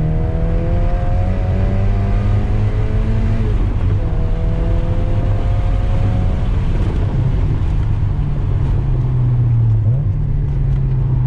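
Mazda Miata's 1.6-litre four-cylinder engine heard from inside the cabin, driven hard on track. Its pitch climbs under acceleration, dips briefly about three and a half seconds in at a gear change, climbs again, then settles into a steady drone over a heavy low cabin rumble.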